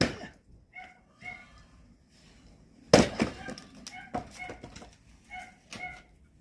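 Two sharp blows of an axe splitting firewood, one at the start and a louder one about three seconds in. Short, repeated bird calls sound between and after them.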